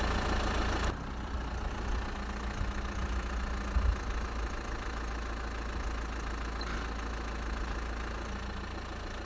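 The small motor of a homemade mini tractor runs steadily with a low hum, easing a little in level about a second in.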